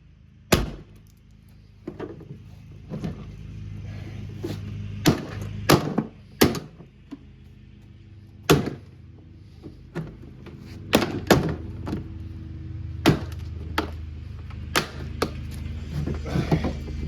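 Irregular hard blows and cracks as a Kuppet portable washing machine is smashed apart, about a dozen sharp knocks, some in quick pairs. A steady low hum runs underneath and grows louder partway through.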